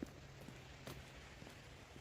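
Faint footsteps of a person walking, a scatter of light taps with one clearer tap about a second in, over a low steady hum.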